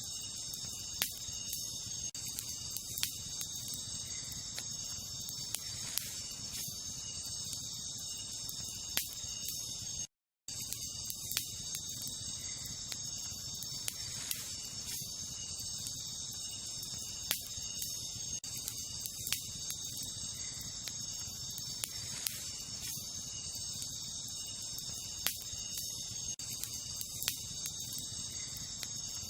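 Wood fire crackling with scattered sharp pops over a low, steady rush, set against a steady high-pitched insect chorus. The sound cuts out completely for a split second about ten seconds in.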